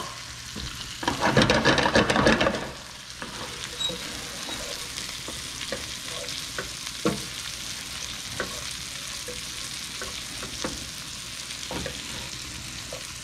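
Chicken breasts frying in a pan with a steady sizzle. About a second in there is a louder stretch of sizzling and stirring, followed by scattered light taps of a utensil on the pan.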